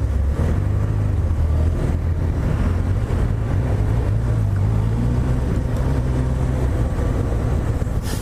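Honda CB1000R's inline-four engine running at low revs as the motorcycle moves off and rides slowly, its pitch shifting a little now and then.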